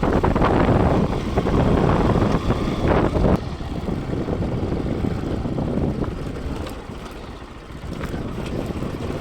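Bajaj Pulsar NS200 motorcycle on the move, engine and wind rush on the rider's microphone. The sound is loudest for the first three seconds or so, then drops, eases further around seven and a half seconds, and picks up again near the end.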